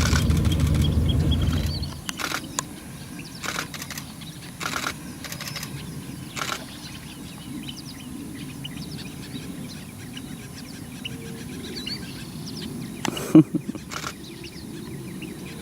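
Small birds chirping and calling in the background. A low rumble drops away about two seconds in, and a few short knocks come through now and then.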